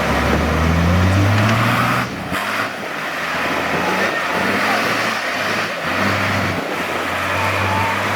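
Off-road 4x4's engine revving under load, climbing in pitch over the first two seconds, easing off, then revving up and down again in waves.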